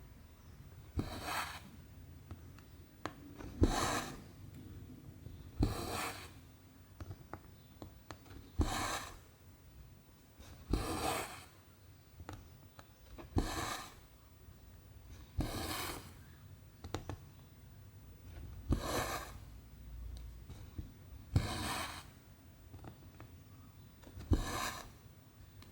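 Cross-stitch needle and cotton thread being drawn through 14-count Aida fabric: a soft rasping pull about every two and a half seconds, about ten in all, many starting with a small tick as the needle pierces the cloth.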